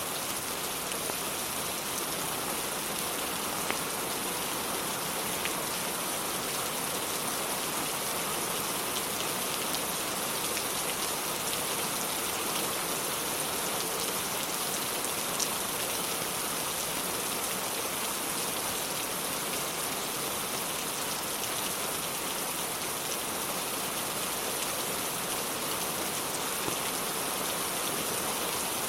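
Steady rain falling as an even hiss, with a few faint isolated clicks, which may be fireplace crackles.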